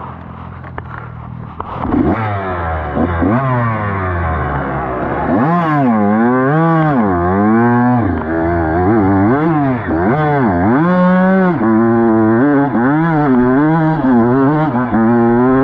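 Dirt bike engine revving up and down over and over under changing throttle, its pitch rising and falling about once a second. It gets louder about two seconds in.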